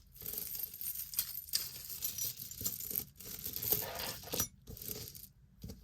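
Costume jewelry being handled: scattered light metal clinks and rustling.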